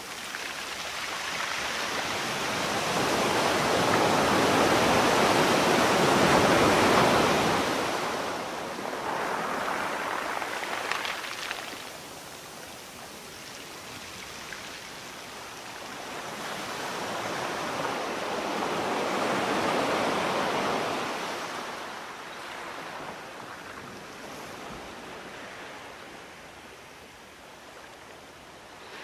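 Sea waves breaking and washing up a shore. The surf swells and falls away in slow surges, loudest about five seconds in and again around twenty seconds, with a smaller surge around ten seconds.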